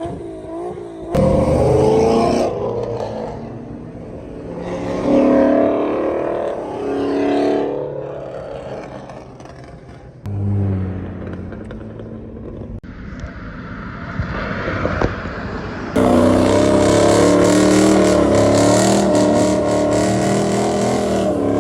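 Car engines revving and accelerating in a string of short clips cut one after another. The loudest, from about 16 seconds on, is one engine held at high revs.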